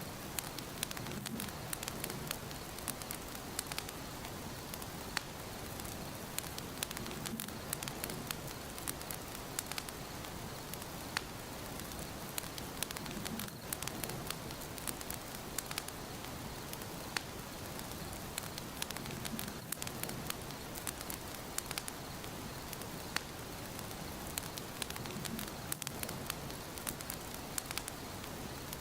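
Fireplace fire crackling: a steady hiss of flame with frequent, irregular sharp pops and snaps.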